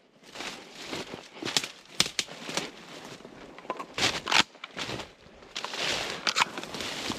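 Footsteps crunching over the forest floor in an irregular walking rhythm, with crackles of dry debris underfoot.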